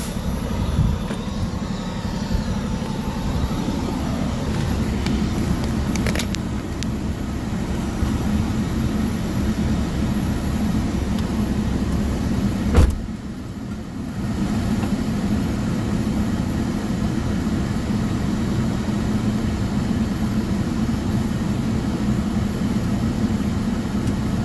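Steady low vehicle rumble, with a single sharp knock about 13 seconds in.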